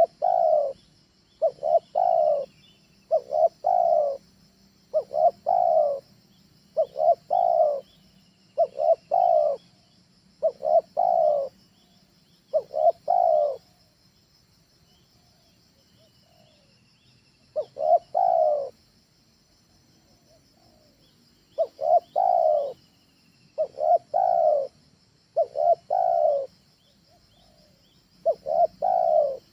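Spotted dove (tekukur) cooing: a phrase of short quick notes running into a longer coo, repeated about every two seconds, with a pause of a few seconds around the middle. Faint chirps of other small birds are heard behind it.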